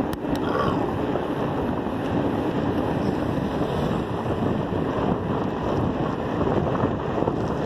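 Wind buffeting the microphone of a camera riding on a moving bicycle: a steady, dense rush of noise, with a brief click just after the start.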